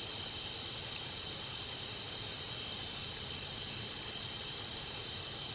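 Crickets chirping: a steady high trill with a second, pulsed chirp repeating about three times a second.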